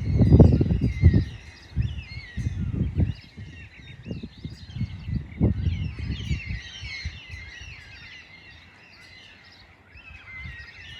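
Many small birds chirping and twittering continuously in high, quick notes. Gusts of wind rumble on the microphone through the first several seconds, then die down.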